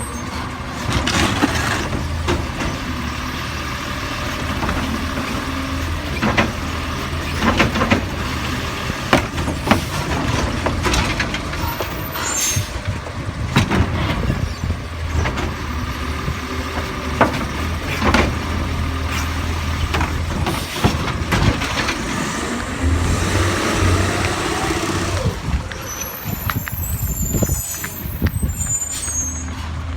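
Autocar New Way Sidewinder side-loader garbage truck running steadily, with many sharp clanks and bangs throughout. Near the end the pitch rises and falls again.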